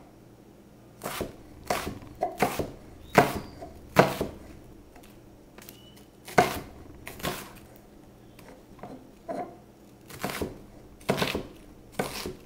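Chef's knife chopping a red onion on a cutting board: single knocks of the blade at an uneven, unhurried pace, with a short pause midway.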